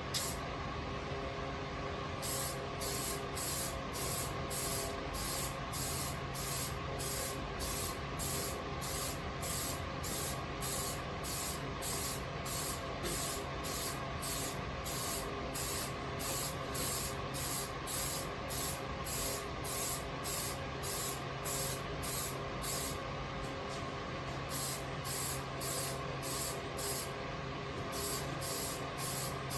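Aerosol spray paint can spraying in short, evenly repeated bursts, about one and a half a second, starting about two seconds in, over a steady background hum.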